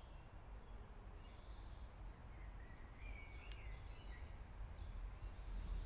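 A songbird singing a run of about ten short, high notes, each sliding downward, about three a second, over a faint steady low outdoor rumble.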